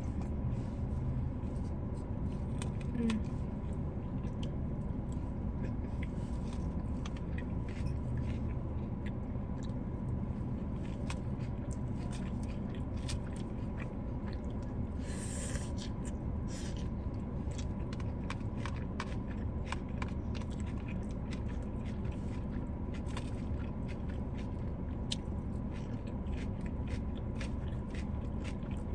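Close-miked eating: chewing and biting with many small clicks and scrapes of food being handled, over a steady low hum. A short hiss-like noise comes about halfway through.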